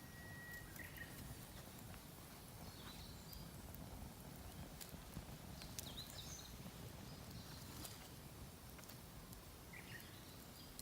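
A campfire of damp, poorly burning firewood in a mesh fire stand, giving faint scattered crackles and ticks over a low steady rustle. A few short bird calls come about a second in, around three and six seconds, and near the end.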